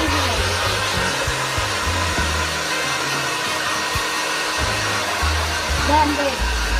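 Silvercrest hand-held hair dryer running steadily, a continuous rushing of blown air with motor hum.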